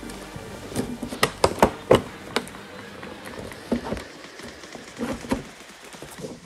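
Doll box packaging being worked open by hand: irregular clicks, snaps and crackles of the packing, a quick cluster in the first two and a half seconds and a few more around five seconds in.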